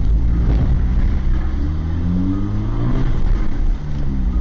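Car engine accelerating hard under a heavy low rumble, its pitch climbing in a few rising revs and dropping back near the end.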